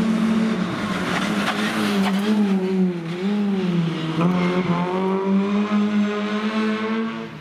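Rally car engine running hard at high revs, the pitch dipping twice and then climbing and holding, with some tyre squeal.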